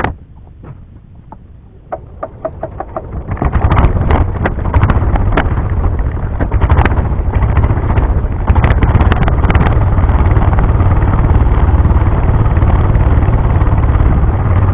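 Clicks in the first three seconds come faster and faster, then about three and a half seconds in a small boat engine starts and runs steadily and loudly.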